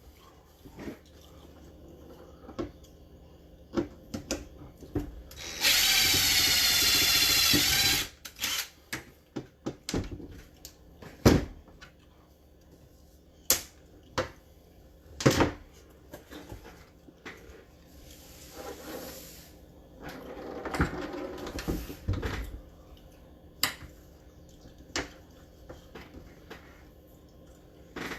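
A small electric power tool runs for about two and a half seconds with a steady whine, among scattered clicks and knocks of tools and parts being handled.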